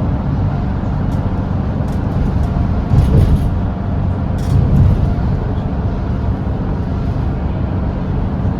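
Volvo B8RLE double-decker bus's diesel engine droning steadily at cruising speed with tyre and road noise. Brief louder rattles or bumps come about three seconds in and again near the middle.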